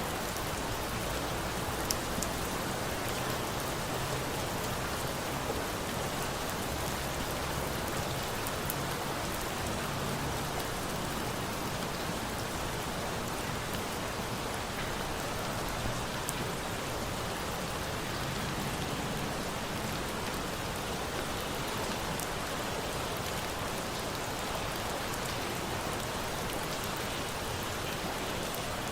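Steady rain falling as a continuous even hiss, with a few scattered sharp crackles from a wood fire, the clearest about two seconds in and again near the middle.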